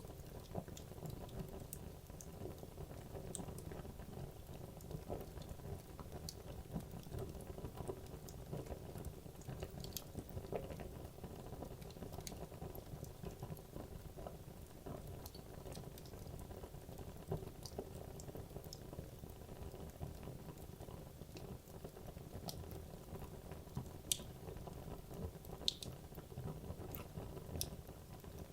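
Wood logs burning in a fireplace: a steady low rumble and hiss from the flames, with frequent sharp crackles and pops scattered throughout, a few louder pops near the end.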